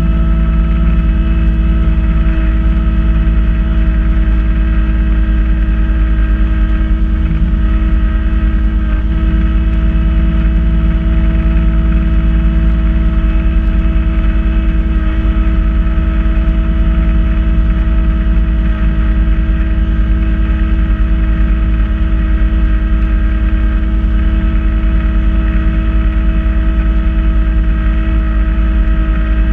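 Kubota B2650 compact tractor's three-cylinder diesel engine running at a steady speed while powering a front-mounted B2782 snowblower. It makes a loud, even drone that hardly changes in pitch.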